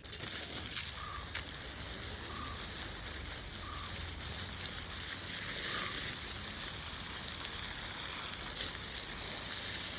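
Steady high hiss of outdoor ambience, with four short faint calls spaced about a second apart in the first six seconds.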